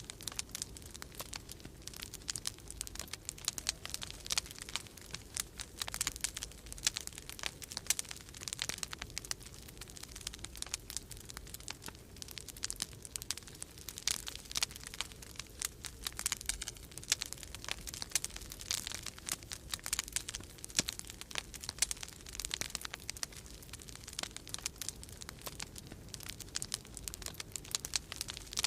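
Wood fire crackling in a fireplace, a dense run of irregular small pops and snaps, over a low steady rumble of winter storm wind.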